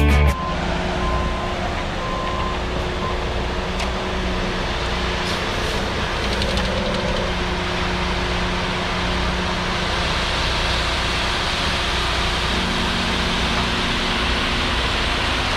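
Heavy equipment engine running steadily under a constant wash of noise, its low hum stepping up slightly in pitch about twelve seconds in.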